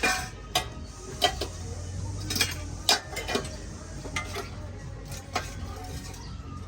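Metal parts being handled, clinking and tapping against each other in sharp, irregular knocks, louder in the first three seconds, over a low steady hum.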